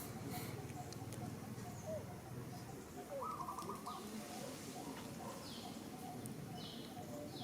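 Birds calling: a short rattling trill about three seconds in, and a few high falling chirps in the second half, over a low rustling background.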